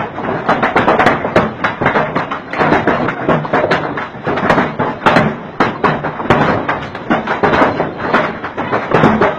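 Large hailstones pelting down, a dense, irregular clatter of sharp hits over a steady rush of falling ice and rain.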